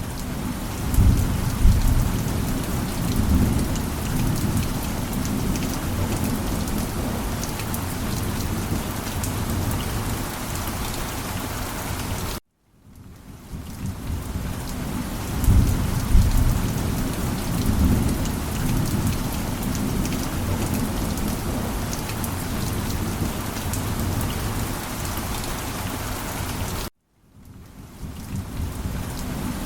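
Heavy rain falling steadily, with low rumbles of thunder. The sound cuts out abruptly twice, about 12 seconds in and near the end, and fades back in each time, as the recording loops.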